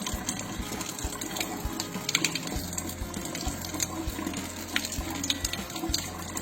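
Water running steadily from a Kangen water machine's spout and splashing onto a metal kitchen exhaust filter held under it.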